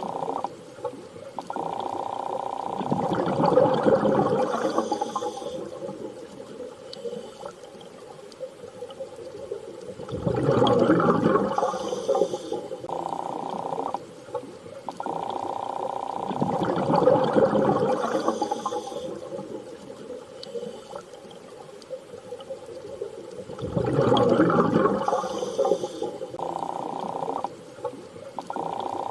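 Underwater sea ambience: slow surges of water swelling and fading about every seven seconds, with steady low humming, whale-like tones that start and stop between them.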